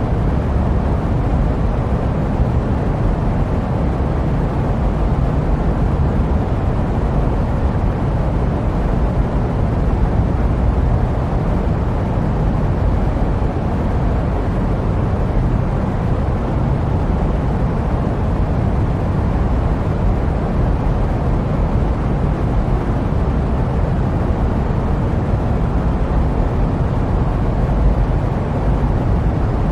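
Steady jet aircraft noise: an even, deep rush weighted toward the low end, with no changes or separate events.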